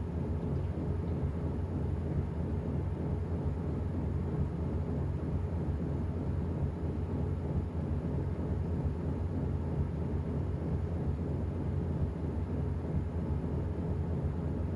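Washing machine running: a steady low rumble.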